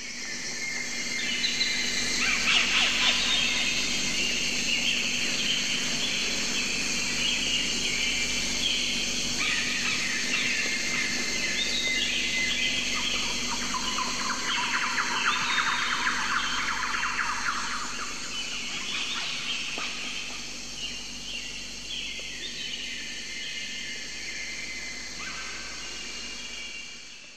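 Many songbirds chirping and singing at once, their short calls and trills overlapping throughout. The sound fades in over the first couple of seconds and fades out near the end.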